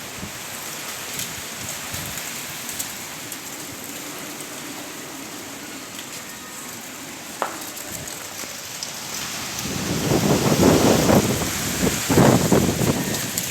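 Strong wind: a steady hiss, then from about ten seconds in, heavy gusts buffeting the microphone in loud uneven surges.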